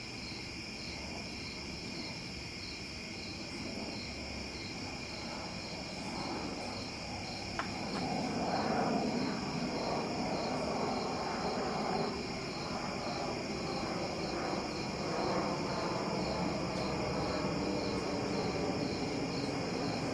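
A GE microwave oven runs with two ping pong balls inside, giving a steady hum and a high, rapidly pulsing buzz. About a third of the way in a single click is heard, and a louder crackling hiss builds and carries on.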